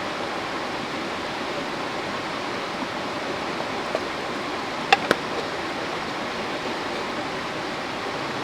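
Steady rush of a mountain river flowing past. A couple of sharp clicks close together about five seconds in.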